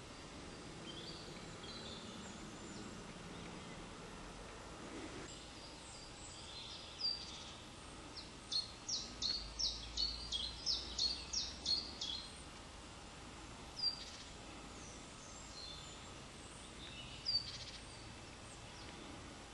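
A songbird singing in woodland: a run of about ten quick, sharp notes, each sliding down in pitch, at roughly three a second. A few single high notes come before and after it, over a faint steady background hiss.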